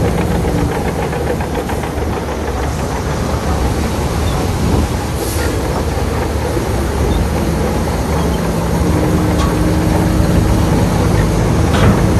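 Shantui crawler bulldozer working: its diesel engine runs steadily under load while the steel tracks clatter.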